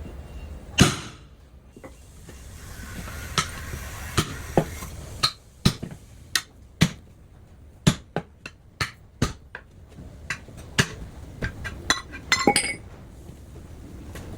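Irregular series of sharp metal knocks and clinks, about twenty in all, from tools striking a big truck tyre's steel wheel rim during a tubeless tyre change, with a quick rattle near the end.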